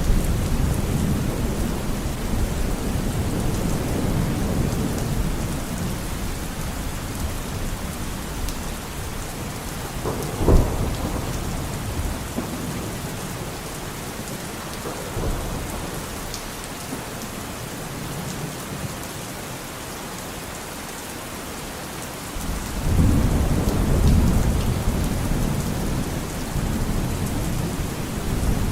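Steady rain with rolling thunder. Low rumbling at the start fades, a single sharp thunderclap comes about a third of the way in with a smaller one a few seconds later, and the rain carries on quieter until heavy rumbling builds again near the end.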